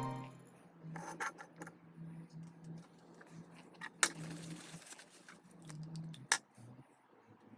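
Faint clicks and clinks of small metal parts and tools being handled, with a sharp click and a short hiss about four seconds in and another sharp click a couple of seconds later.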